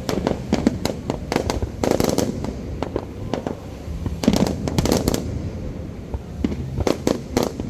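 Aerial fireworks display: a rapid, irregular series of shell bursts and bangs, coming in clusters, over a low rumble.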